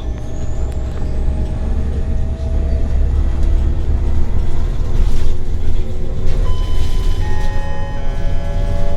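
Scania L94UB city bus heard from inside on the move: its OCS9 compressed-natural-gas engine and ZF automatic drivetrain give a heavy low rumble, with a whine that slowly rises in pitch as the bus gathers speed. Several higher steady whining tones join in near the end.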